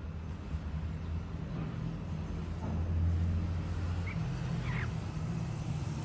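A steady low rumble, with a few faint short chirps from cockatiels about four to five seconds in.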